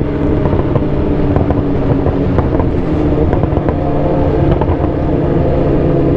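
Sport motorcycle engine running at a steady, unchanging speed in slow traffic.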